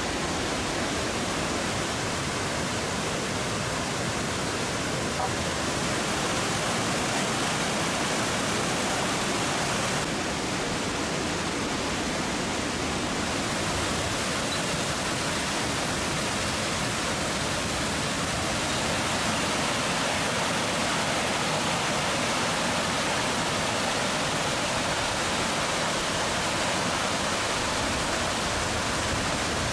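Waterfall pouring over travertine barriers: a steady, even rush of falling water that holds at the same level throughout.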